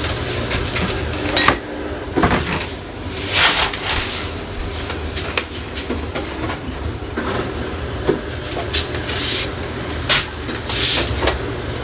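Household handling sounds while clearing out a refrigerator: containers knocking and clunking against shelves or the door, with several short rustling hisses, over a steady low hum.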